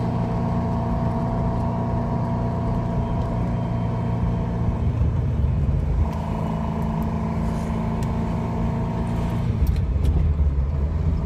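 Small car's engine running as it drives along, with wind rushing over the microphone held out of the window. Its steady note breaks off about five seconds in and comes back a second later, then breaks off again near the end, fitting gear changes that go through with no notch, click or grind.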